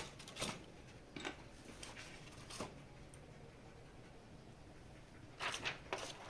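Faint clicks and light taps of small screws and hardware being handled while a speaker grille is fastened. There are a few single ticks over the first three seconds and a short cluster of clicks near the end.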